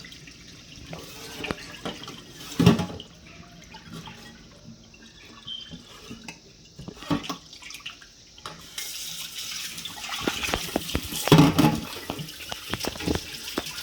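Cicadas being rinsed in water at a sink: water sloshing with occasional sharp knocks. A tap runs steadily from about nine seconds in.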